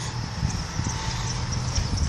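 Bicycle rolling over a bumpy path: a steady low rumble with a few light, irregular knocks as the wheels hit the bumps.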